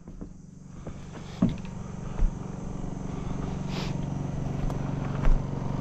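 Engine of a construction machine running steadily, getting louder over the first couple of seconds and then holding, with a few short knocks.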